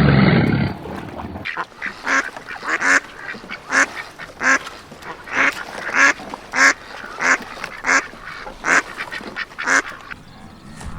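Duck quacking in a steady run of short calls, about two a second. It follows a loud, lower-pitched animal sound from another clip, which cuts off suddenly about a second and a half in.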